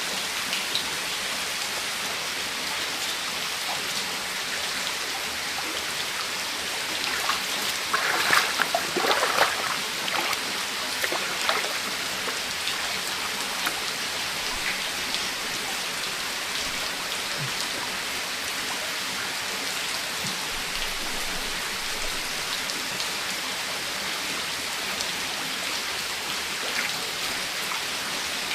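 Steady heavy rain falling and pattering on surfaces. About eight seconds in, a short burst of louder, sharper knocks and splashes rises above the rain for a few seconds.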